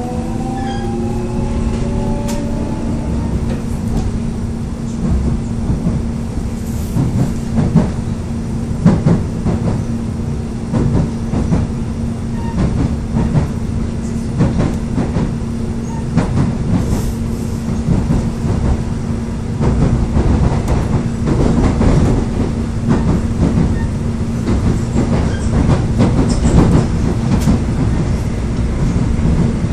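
A Korail Line 3 electric train running along the track, its wheels clicking over rail joints irregularly throughout, over a steady hum. A rising whine fades out in the first few seconds.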